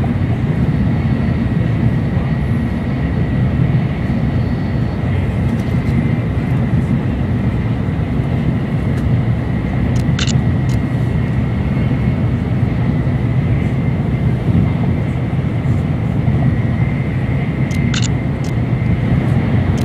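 Shinkansen bullet train running at speed, heard from inside the passenger cabin: a steady low rumble with a faint high whine held throughout. Two short, hissy swishes break through, about halfway and near the end.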